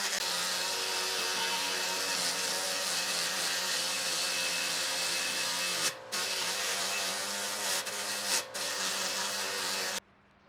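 Power tool motor running steadily under load, with two brief dips, then breaking off abruptly near the end.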